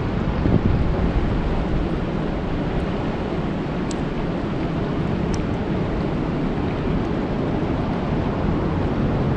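Steady rain falling on a lake: a dense, even wash of noise, heaviest in the low end, with a few faint sharp drip ticks.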